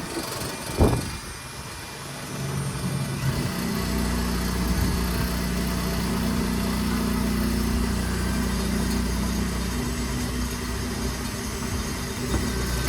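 A single sharp knock about a second in, then a motor running at a steady speed with a low, even hum that sets in over a couple of seconds and holds until near the end.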